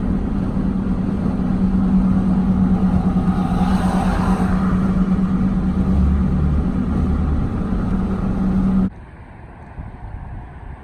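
Steady motor-vehicle hum: an engine or road drone with a swell near the middle, which cuts off abruptly about nine seconds in, leaving a quieter wind-like rush.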